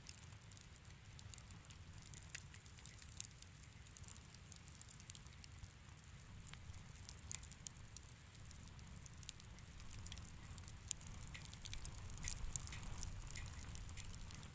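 Wood fire crackling in a fireplace: scattered sharp snaps and pops over a low rumble, coming more often in the second half, with the sharpest pop a little before the end.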